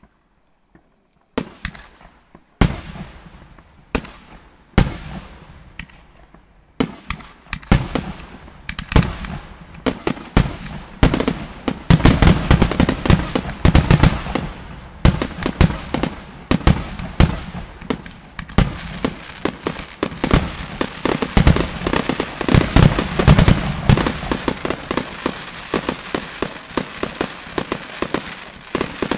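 Aerial fireworks display. At first there are single bangs a second or two apart, which build into rapid bursts, and after about twelve seconds into a dense barrage of bangs with crackling.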